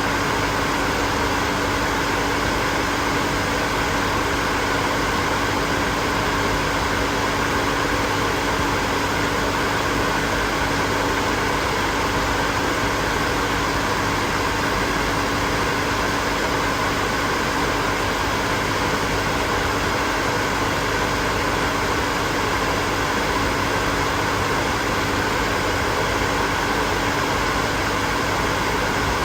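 Hair dryer running steadily: an even rush of blown air over a constant motor hum, with no change in speed.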